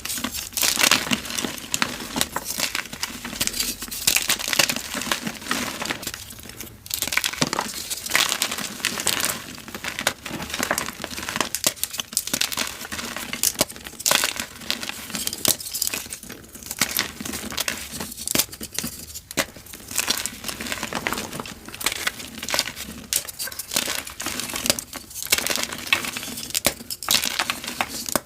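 Blocks of dyed gym chalk being crumbled and crushed by hand: dense, irregular crunching and crackling in quick bursts with short pauses between.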